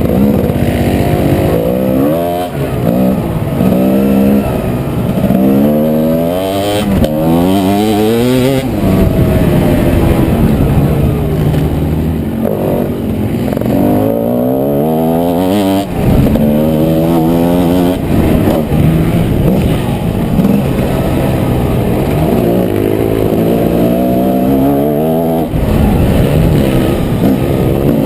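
Motocross dirt bike engine revving hard on the track, its pitch climbing and dropping back again and again as the rider opens the throttle and shifts.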